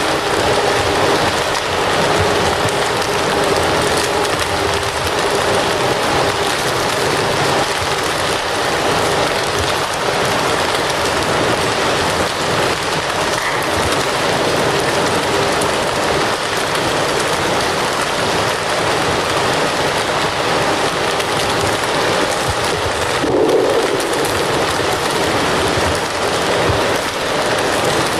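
Wood fire crackling: a steady hiss of burning, thick with small crackles and pops, and one louder pop near the end.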